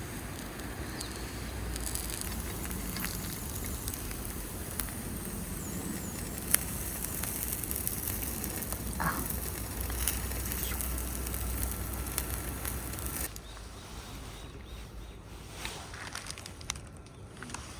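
Campfire burning with a steady hiss and scattered crackles and pops; about thirteen seconds in it cuts off abruptly to a quieter outdoor background with a few small knocks.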